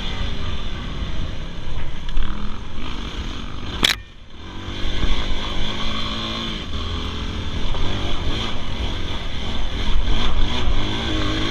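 Dirt bike engine revving while being ridden, its pitch rising and falling with the throttle, over a steady rushing noise. About four seconds in there is a sharp click and the sound drops away briefly before the engine picks up again.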